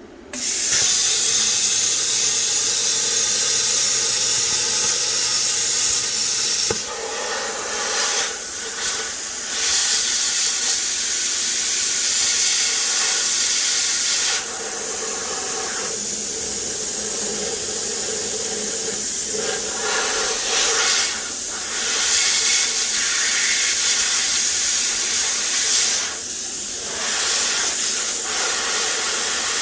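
Plasma cutter cutting through a steel oil pan: a loud, steady hiss of the arc and compressed air that starts suddenly and wavers, dropping in level a few times as the torch moves along the cut.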